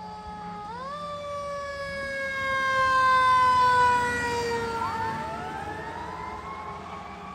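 Federal Q2B mechanical sirens on a fire engine and ladder truck. One siren spins up about a second in, then winds down in a long falling wail. Another wind-up begins rising in pitch about five seconds in.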